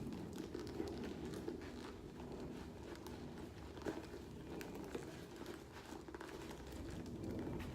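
Leather handbag and wallet being handled: soft rustling with scattered small clicks as the wallet is pushed into the bag's tight zippered compartment.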